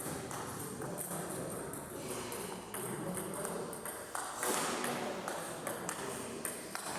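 Table tennis rally: the celluloid ball clicking off the paddles and table again and again, over a murmur of voices in the hall.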